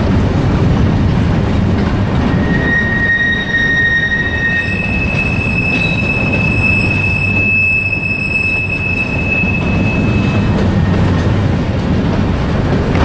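Freight train rolling past with a steady rumble of cars and wheels, and high steel wheel squeals over it: one tone from about two and a half seconds in, then a higher, longer squeal from about four and a half to ten and a half seconds.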